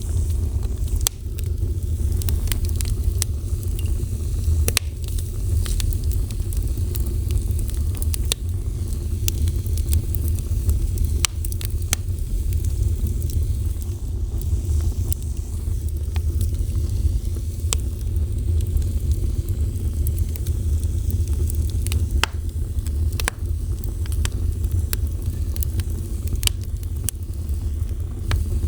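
Wood fire burning with a steady low rumble and irregular sharp crackles and pops scattered throughout.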